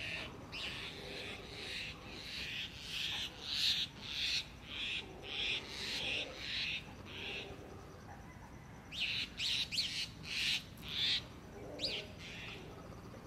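A bird calling over and over, short high-pitched calls about twice a second; they stop for about a second and a half midway, then resume with a few quick sweeping whistles.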